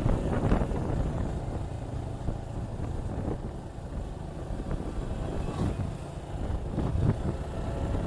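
Suzuki Gixxer 155's single-cylinder engine running steadily as the motorcycle rides along, mixed with wind rumbling on the microphone.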